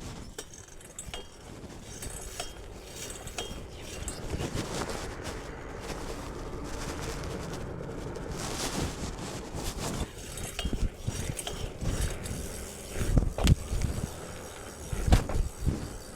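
BMX bike being ridden over a forest trail: tyres rolling on dirt, with the chain and frame clinking and rattling, and a few heavy thumps near the end.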